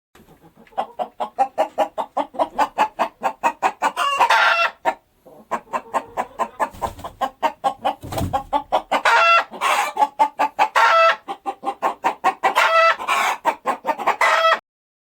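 Hens clucking quickly, several clucks a second, broken now and then by longer drawn-out calls. The clucking stops briefly about five seconds in and ends shortly before the close.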